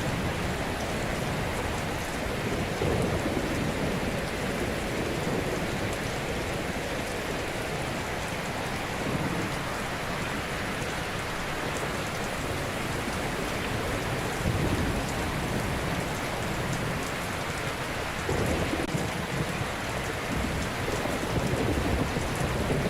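Ocean waves breaking gently on a shore: a steady wash of surf that swells and eases every few seconds.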